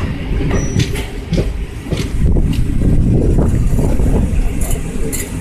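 Jan Shatabdi Express passenger train running along the track: a steady wheel-and-rail rumble with scattered sharp clicks.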